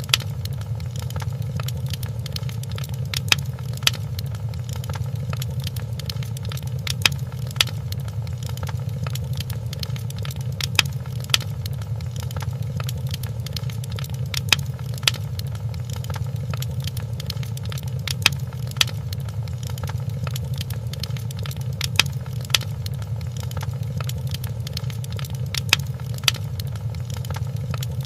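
Wood fire crackling in a fireplace: a steady low rumble with constant small crackles and louder sharp pops, often two together, every few seconds.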